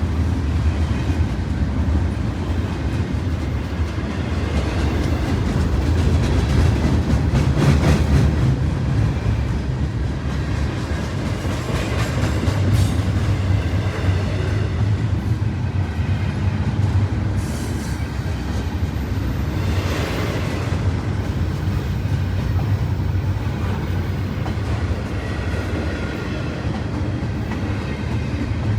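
A train running past on the tracks: a steady low rumble with occasional clacks of the wheels over the rails.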